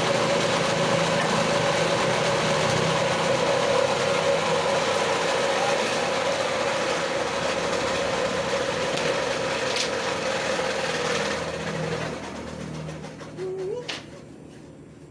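Electric woodworking power tool running steadily as it cuts a wooden door jamb, then winding down and stopping about twelve seconds in. A short squeak and a sharp click follow near the end.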